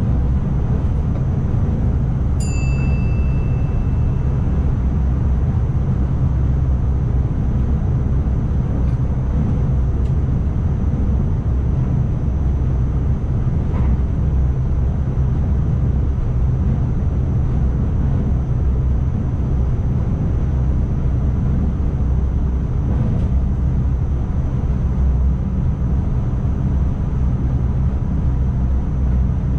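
Steady low rumble of an ICMm intercity train running, heard from the driver's cab, with a faint high whine throughout. A single bell-like ding sounds about two and a half seconds in and rings away over a couple of seconds.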